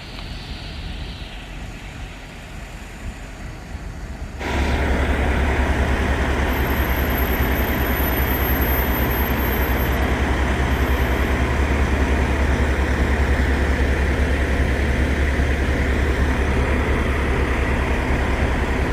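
Steady low road-and-engine rumble of a moving vehicle, starting abruptly about four seconds in after a quieter stretch of outdoor background noise.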